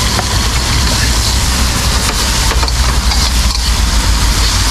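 Chilli, scallions and doubanjiang sizzling in hot oil in a pan over a burner, with a steady hiss and a constant low rumble underneath.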